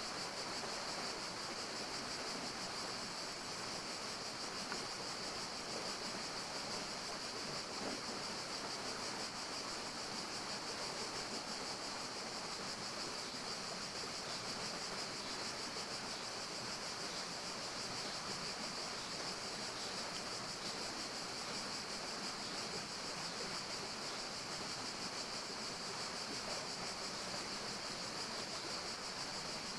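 Steady forest ambience: an even rushing noise, like flowing water or wind, with a continuous high-pitched hiss above it and no distinct events.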